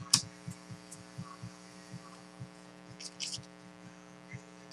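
Steady electrical mains hum, with a couple of sharp clicks and a brief rustle about three seconds in from trading cards being handled.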